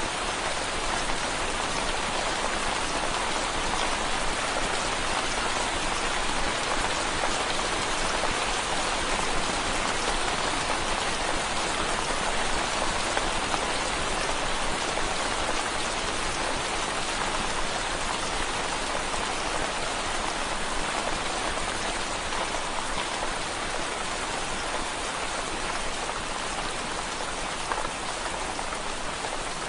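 Rain falling steadily on window glass: a dense, even patter with no breaks or changes.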